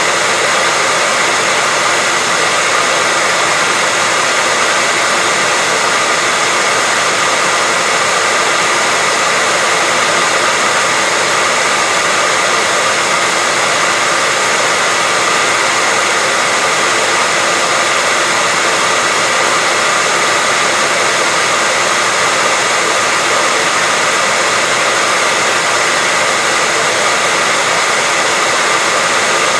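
Hairdryer running steadily on one setting, an even rushing whoosh of air with a faint whine from its fan motor, unchanging throughout.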